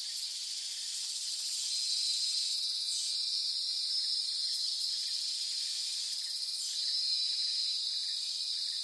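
Insect chorus: a steady, high-pitched, unbroken drone that swells slightly a couple of times.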